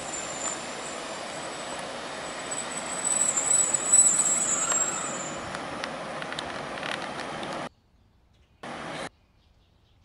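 Diesel multiple unit running into the platform and slowing, with a high squeal over its rumble that is loudest about three to four seconds in. Near the end the sound cuts out twice, briefly.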